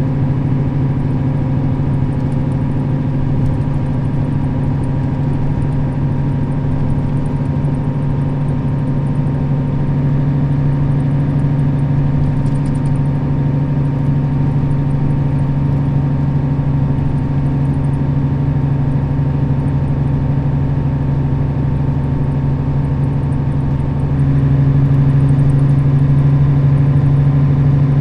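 Nissan Diesel KL-RA552RBN bus's diesel engine running steadily as the bus drives, a constant low drone. About 24 seconds in it grows a little louder.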